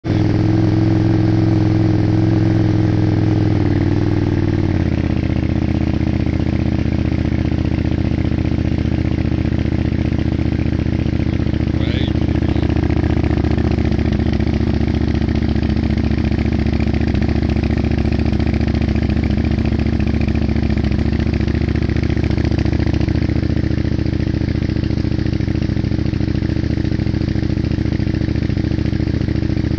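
KTM 990 Super Duke's V-twin idling through an Akrapovic Evo exhaust with the baffles removed. It runs at a higher idle for the first few seconds, drops to a lower idle about four to five seconds in, and then holds steady.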